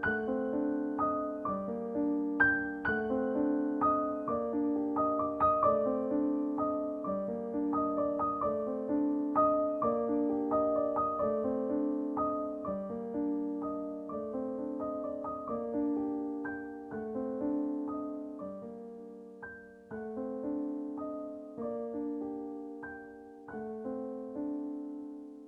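Soft background piano music, gentle notes over held chords at an even pace, fading out near the end.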